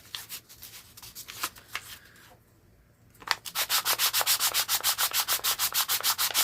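Fine sandpaper rubbed by hand over a small wooden knob, smoothing it before staining. Uneven scratchy strokes at first, a short pause, then a fast, steady back-and-forth of about nine strokes a second.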